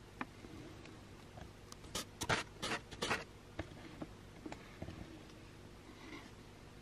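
Fingers pressing and rubbing gaffer's tape and foam onto a compact camera's body, heard close up through the camera's own microphone as scattered scratches and light taps, with a cluster of them about two to three seconds in.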